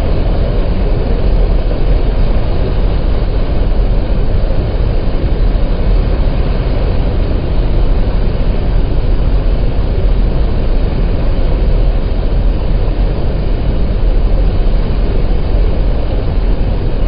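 Steady, loud low rumble of a boat underway on a river, unchanging throughout.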